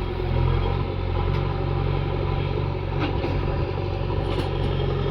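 Diesel engine of a JCB backhoe loader running steadily, with a few light clanks along the way.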